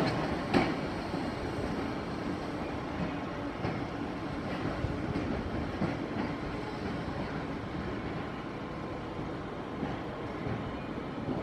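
Merseyrail Class 508 third-rail electric multiple unit pulling away across station pointwork. Its wheels give two sharp clacks over the rail joints right at the start, then steady running noise that slowly fades as the train recedes.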